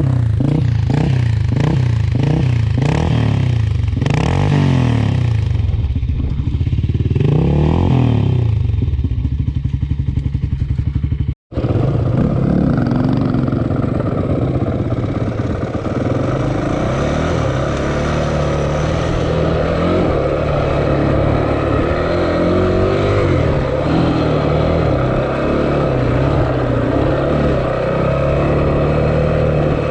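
Dirt bike engine revving up and down over and over for about ten seconds. After a sudden cut about eleven seconds in, it runs more steadily at higher revs.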